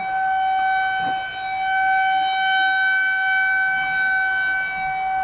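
Outdoor tornado warning siren sounding one steady, loud tone, signalling a tornado warning.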